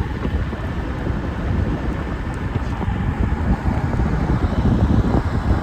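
Strong wind buffeting the microphone: a loud, gusting rumble that is heaviest in the low end.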